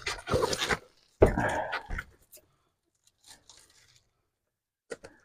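Plastic poultry bag crinkling and rustling as it is handled, in a few loud bursts over the first two seconds, then only faint handling sounds and a short click near the end.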